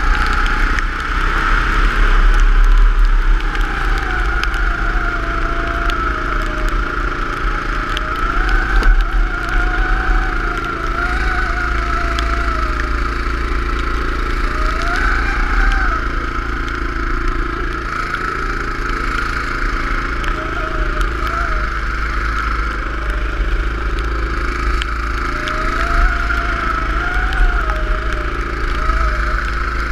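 Go-kart engine running continuously, its pitch rising and falling over and over as the kart speeds up and slows, over a steady low rumble.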